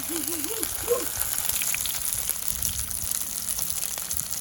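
Sausages sizzling in a pan over a campfire: a steady frying hiss.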